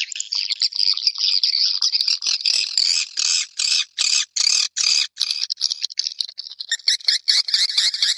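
Swiftlets calling: a dense, high twittering chatter. Midway it breaks into separate chirps about three a second, and near the end it turns into a fast, even trill of about five notes a second.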